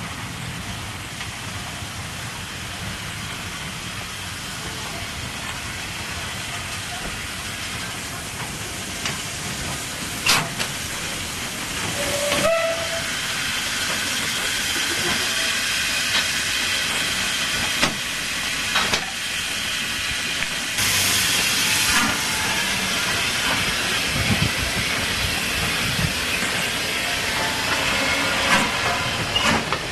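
Steam locomotive hissing steam, growing slowly louder, with scattered knocks and a louder rush of steam about two thirds of the way in.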